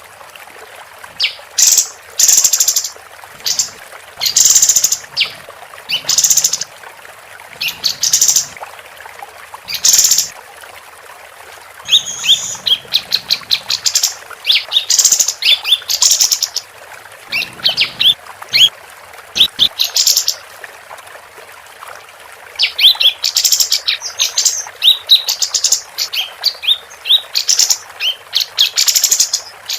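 A female kapas tembak, the songbird used as a masteran model, singing. First come loud separate calls about every second or two, then from about twelve seconds in long runs of rapid, chattering high chirps.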